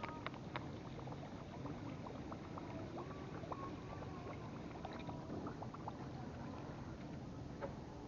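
Faint steady low rumble of a small fishing boat on open water, with scattered light clicks.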